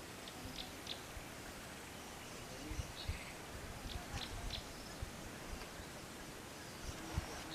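Outdoor ambience: a steady background hiss with scattered short, high bird chirps, a few in quick succession near the start and a cluster around three to four and a half seconds in, plus occasional low thumps.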